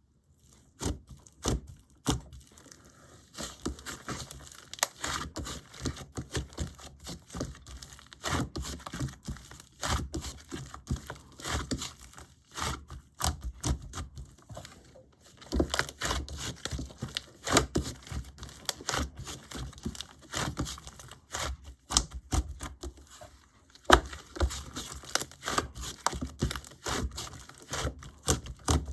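Clay slime being squished, stretched and folded by hand, giving a steady run of sharp crackling pops and clicks.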